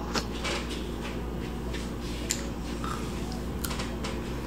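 A person biting into and chewing a chocolate snack close to the microphone, a few irregular crisp clicks and crunches over a steady low hum.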